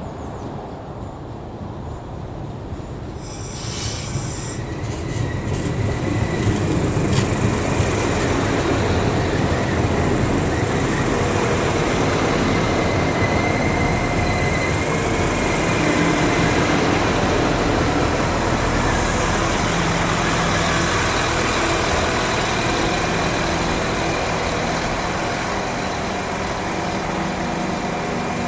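Irish Rail 22000 class diesel multiple unit running into the station and braking to a stop, its wheels and brakes squealing and its underfloor diesel engines running. The train grows louder from about four seconds in, and the engines settle to a steady hum near the end as it comes to rest.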